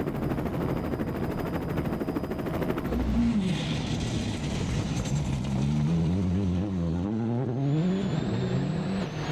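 Rally car engine at full effort, revving up and down repeatedly as it is driven hard through a stage.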